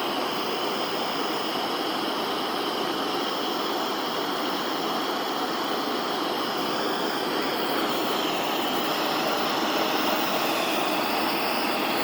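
Handheld gas torch flame burning with a steady hiss, heating a pressurized steel two-stroke exhaust pipe red-hot to push out a dent.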